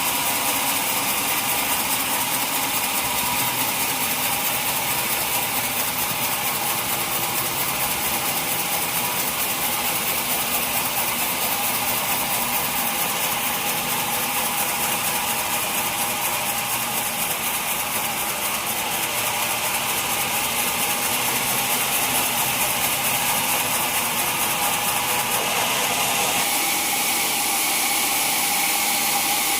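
Sawmill saw running steadily while milling a mahogany log, a continuous machine sound with a fine, fast ticking throughout, changing in tone near the end.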